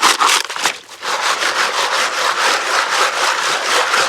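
Gravel and rocks grinding and rubbing against the wire mesh of a gold-panning classifier sieve as it is shaken. There are a few separate scrapes at first, then a continuous grinding from about a second in.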